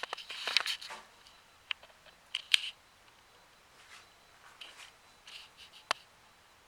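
Irregular short scratchy rustles and sharp little clicks, scattered and close by, the loudest a sharp click about two and a half seconds in.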